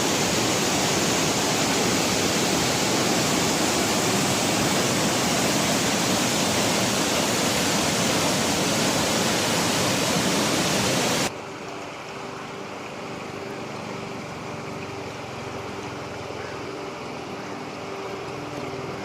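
Keralamkund waterfall rushing, a loud steady roar of falling water. About eleven seconds in it cuts off sharply to a quieter steady hiss with a faint low hum.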